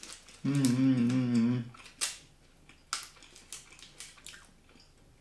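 A long closed-mouth "mmm" of enjoyment hummed while chewing, followed by scattered crisp crunches of a crunchy sesame bar being chewed.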